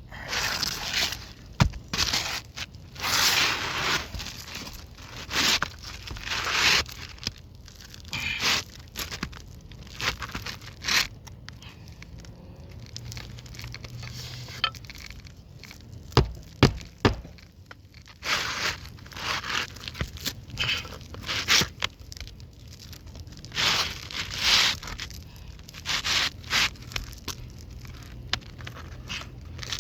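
Irregular scraping, rustling and crackling of work on asphalt roof shingles, with a few sharp knocks a little past halfway.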